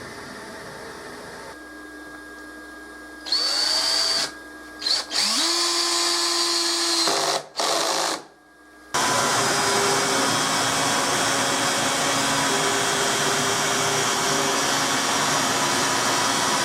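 A power tool's motor starts and spins up in pitch, then stops, several times in short runs. It then runs steadily for the last eight seconds or so.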